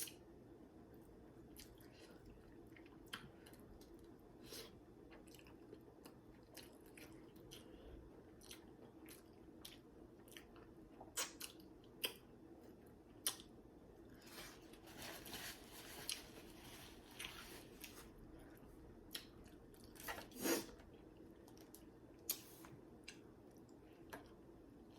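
Close-miked chewing of food, with scattered sharp wet clicks and crunches and a busier stretch of chewing a little past halfway, over a faint steady low hum.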